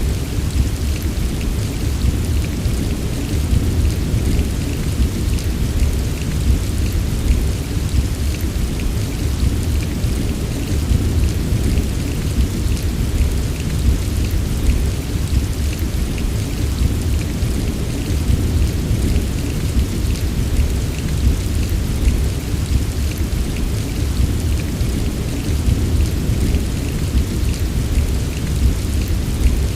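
Steady heavy rainfall with a constant low rumble underneath and scattered tapping of drops, unchanging throughout.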